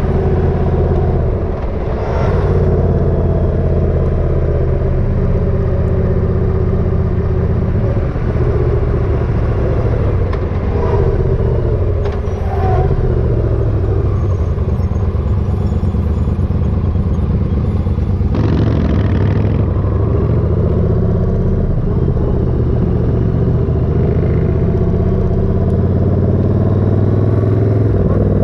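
Motorcycle engine running steadily on the road, its pitch shifting a few times with speed and a brief dip about a second and a half in.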